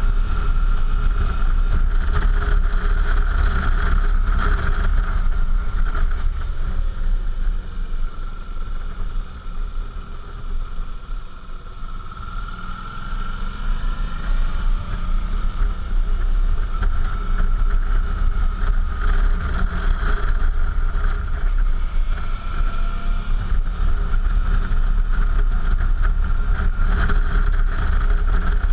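Suzuki V-Strom's V-twin engine running under way, with wind on the microphone. It eases off about a third of the way in, then picks up again with a rising engine note.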